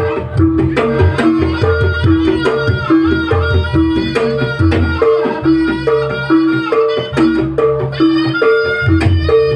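Javanese jaranan (kuda lumping) ensemble music: hand drums beating a steady rhythm under an evenly repeating two-note pattern on tuned percussion, with a reedy wind melody on top.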